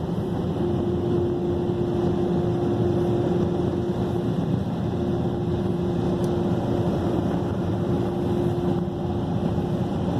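Automatic car wash air dryer blowers running at full power: a steady rush of air with a constant hum underneath.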